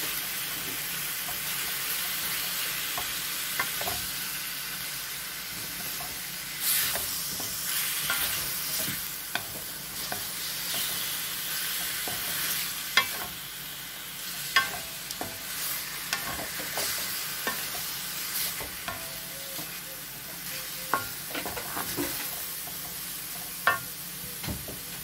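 Raw chicken strips with onion and ginger sizzling in an aluminium wok, a steady hiss, while a wooden spatula stirs and scrapes through them. The spatula knocks sharply against the pan now and then, more often after the first few seconds.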